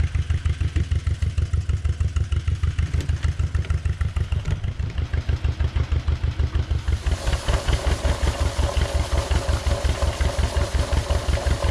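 Tractor engine running at a steady, even pulsing beat. About seven seconds in, a higher hiss and a steady whine join in over the beat.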